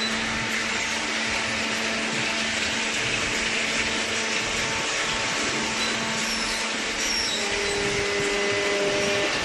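Commercial cardboard baler's hydraulic power unit running steadily: a constant motor-and-pump hum under a broad mechanical hiss. A second steady tone joins near the end.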